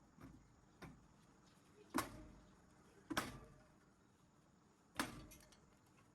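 A few sharp metallic clanks of tools on metal, irregularly spaced, some ringing briefly; the loudest come about two, three and five seconds in.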